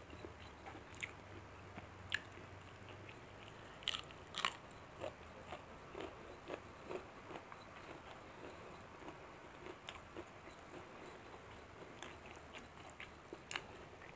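Close-up chewing and wet mouth sounds of a person eating rice and curried chicken liver by hand: irregular soft clicks and smacks, with a few louder ones about four seconds in.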